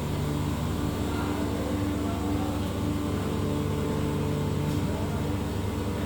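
Steady mechanical hum of running machinery, with several fixed low tones over a constant hiss and no change in level.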